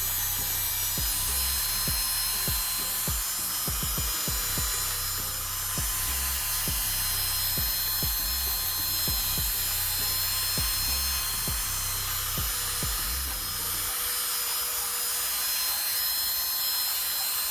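Abrasive scuff pad scrubbing a hazy plastic motorcycle headlight lens: a steady rubbing hiss with frequent knocks and bumps that stop about 14 seconds in.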